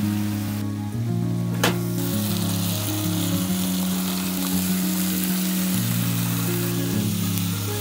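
Food sizzling as it fries in a pan and is stirred with a wooden spatula: diced onion and carrot at first, then, after a brief dip and a sharp click, minced beef frying as it browns, with a louder sizzle. Background music with sustained low notes plays throughout.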